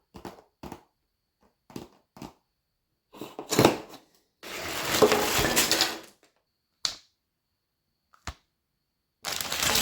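Plastic LEGO pieces and parts bags being handled: a few sharp plastic clicks, then crinkling, rattling stretches, the longest lasting about a second and a half in the middle, with another near the end.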